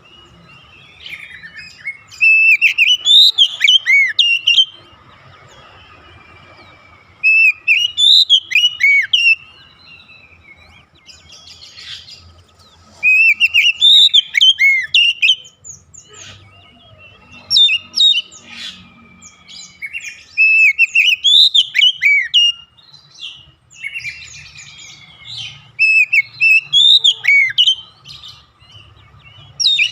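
Oriental magpie-robin singing: loud, varied phrases of quick rising and falling whistled notes and chirps, each about two to three seconds long and repeated about every five seconds.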